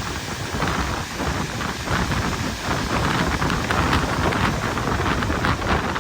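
Train running along the line, heard from on board: a steady rushing rumble of wheels and wind.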